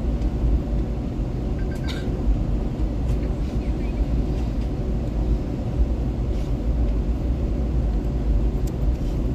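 Steady low rumble of an Airbus A321 airliner cabin before takeoff, with a few faint clicks.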